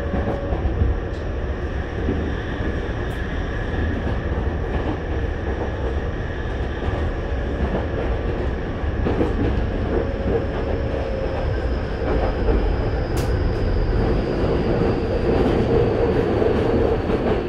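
Running noise heard inside a Tokyu 5050 series commuter train car with Hitachi IGBT-VVVF traction control: a steady low rumble of wheels on rail, with a few sharp clicks and a faint high whine that drifts slowly lower.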